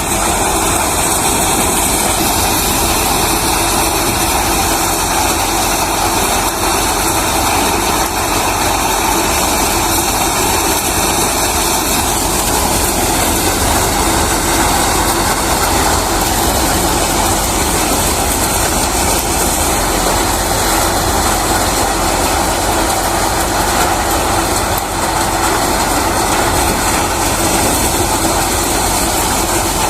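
Reinforce P-335 maize thresher running steadily at work, its engine and threshing mechanism making a loud, continuous mechanical noise. A few high steady tones in it stop about twelve seconds in.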